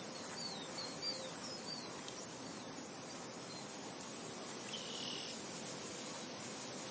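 Steady wind noise, an even hiss, with a short run of quick high chirps, about three a second, in the first two seconds and another faint chirp about five seconds in.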